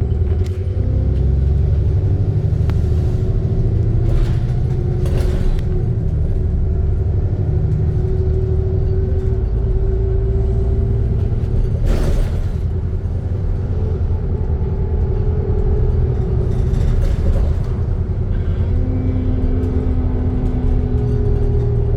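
Alexander Dennis Trident II Enviro 400 double-decker bus heard from inside, its engine running with a heavy low rumble and a steady whine that shifts slightly in pitch. A few short knocks or rattles come through, the loudest about halfway.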